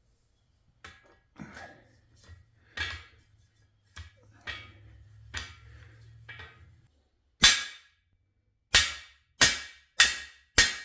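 Hammer blows on a cam bearing installer tool, driving a new cam bearing into the LS6 engine block: lighter clicks and knocks first, then five sharp metallic strikes, the last four about two-thirds of a second apart.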